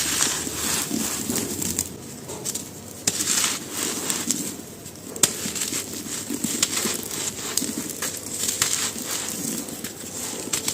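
Dry, dusty pieces crunching and crumbling in dense crackling bursts, with brief lulls in between and one sharper snap about five seconds in.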